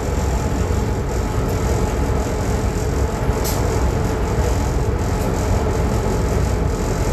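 Train running, heard from aboard: a steady low rumble with rail noise and a sharp click about three and a half seconds in.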